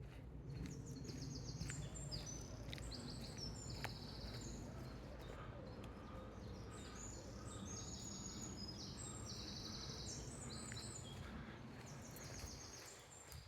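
Several songbirds singing in woodland: short, fast, high trilled phrases repeating one after another, over a steady low rumble.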